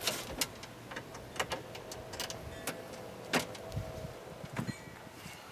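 Irregular light clicks and metallic clinks of hand tools and parts being handled inside a car door while a power window regulator is fitted, over a faint steady hum.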